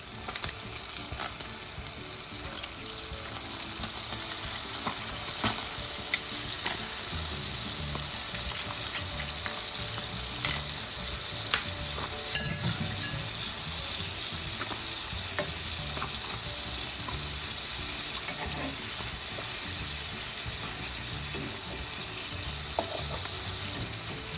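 Spam slices frying in a pan with a soy sauce and sugar glaze, sizzling steadily, with a few sharp clicks of a utensil against the pan.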